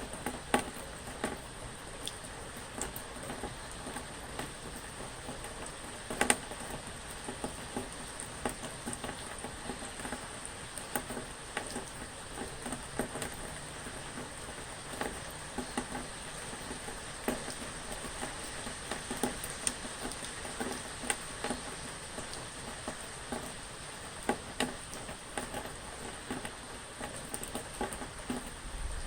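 Rain falling steadily, a constant hiss with many irregular drops pattering and ticking, some louder than others.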